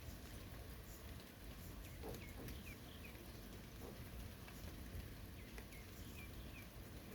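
Light, steady rain in a forest with scattered drops pattering. Two brief clusters of faint short chirps sound over it, about two seconds in and again near the end.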